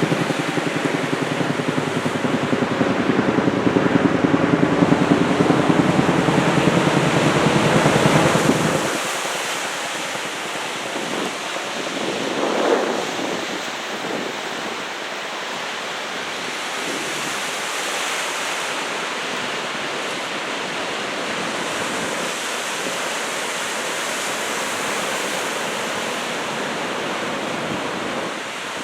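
Ocean surf from a typhoon swell washing in steadily, with wind buffeting the microphone as a heavy low rumble for the first nine seconds or so, then stopping abruptly. A wave swells up briefly louder about twelve seconds in.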